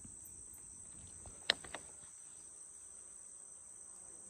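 A steady, high-pitched chorus of garden insects, crickets among them, with a single sharp click about a second and a half in and a fainter one just after.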